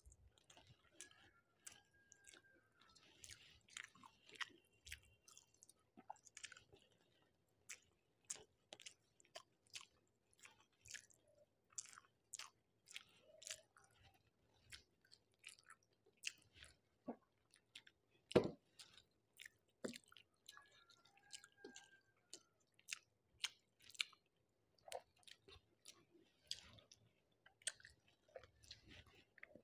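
A person chewing a meal of rice and curry: a steady run of soft, wet mouth smacks and clicks, with one louder knock about eighteen seconds in.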